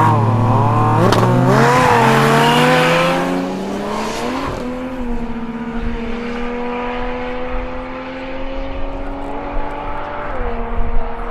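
Drag car engine held at high revs, then launching about a second in. Its revs climb as it pulls away and grows fainter, with a drop in pitch from a gear change about ten seconds in.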